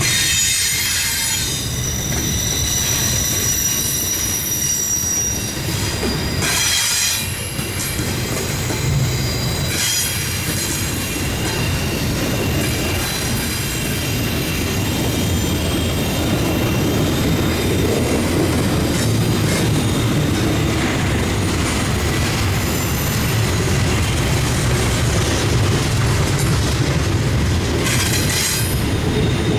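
Long CSX intermodal freight train's cars rolling past: a steady low rumble with high-pitched wheel squeal on the rails and some clickety-clack of wheels over rail joints.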